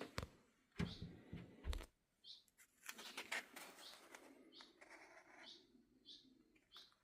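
A small bird chirping over and over, short high chirps about once a second. A few knocks in the first two seconds are the loudest sounds.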